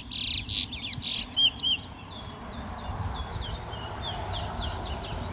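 Towa-towa (chestnut-bellied seed finch) singing in a song race: a dense run of loud, rapid high notes for about the first second, then a string of thinner, quick whistled notes. Each completed song is one of the songs being counted in the contest.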